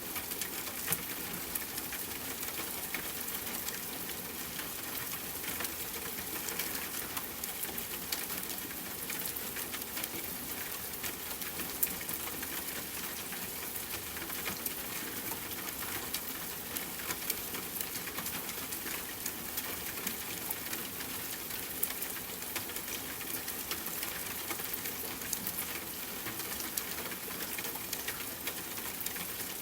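Steady rain falling, with a campfire crackling through it: many small sharp ticks and a few louder pops.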